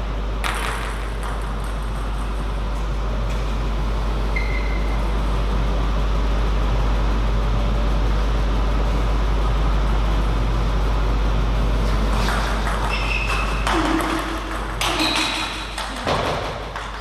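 Steady low hum and background noise of a sports hall. In the last few seconds come several sharp clicks of a table tennis ball and a few short high squeaks.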